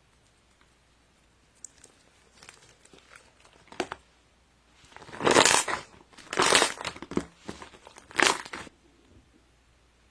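Crinkly material being handled up close: small rustles and clicks, then three loud crinkling rustles about five, six and a half, and eight seconds in.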